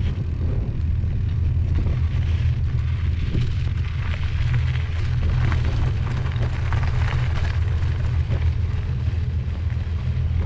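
Train running: a steady low rumble with scattered rattling.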